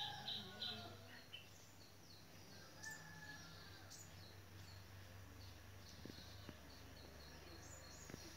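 Quiet ambience with small birds giving brief high chirps now and then over a faint low hum; a louder drawn-out bird call trails off in the first second.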